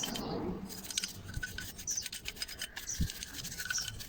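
Scrubbing of Bajaj auto-rickshaw starter motor parts during cleaning: a run of short scratchy rubbing strokes, with a dull knock about three seconds in.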